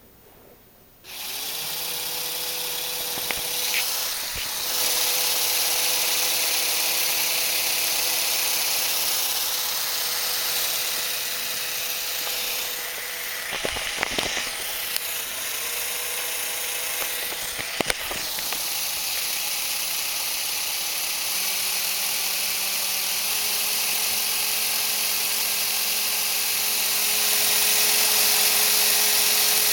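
Two small Lego Racers remote-control electric motors whirring as they turn a Lego model engine. The motors start about a second in with a steady whine, with a few sharp clicks in the middle. The pitch steps up twice in the second half and the sound grows louder near the end.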